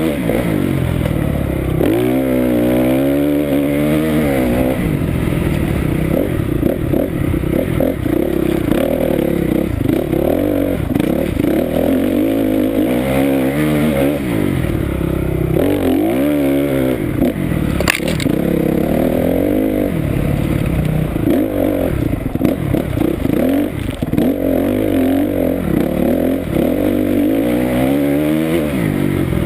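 Honda CRF250R motocross bike's single-cylinder four-stroke engine revving up and dropping back again and again, every few seconds, as it brakes into and accelerates out of tight turns in sand. One sharp click sounds about two-thirds of the way through.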